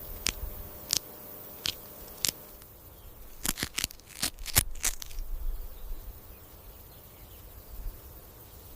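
A series of sharp crackling clicks and crunches. A few come spaced about two-thirds of a second apart, then a quick cluster about three and a half to five seconds in, over a faint outdoor background.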